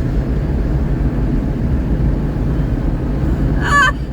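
Steady low rumble of a car's engine and tyres on the road, heard inside the moving car's cabin. A brief high-pitched voice sound comes in just before the end.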